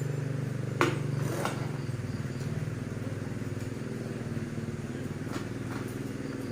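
A small engine running steadily at idle, with a sharp click about a second in.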